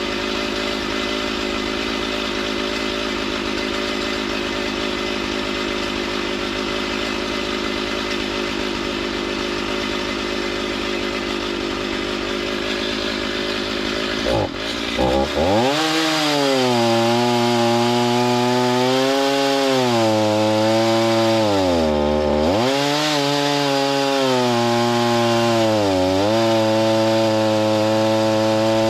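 Petrol engine of a saw milling lumber. It runs steadily, then about halfway through revs up sharply and cuts through wood at high speed, its pitch sagging several times as the blade bites into the log.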